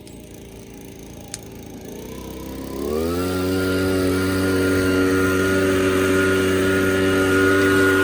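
A small engine revs up between about two and three seconds in, then runs steadily at high speed with an even, loud drone.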